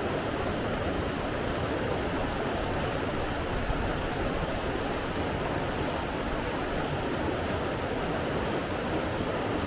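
Flowing water rushing steadily, without a break.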